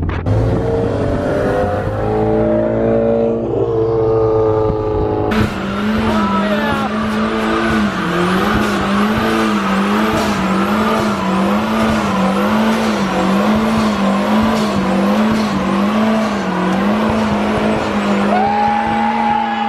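A car engine revving up, its pitch climbing, dropping, then climbing again. About five seconds in comes a sudden louder stretch of tyre squeal, with the engine held at high revs in a wavering tone, as in a burnout.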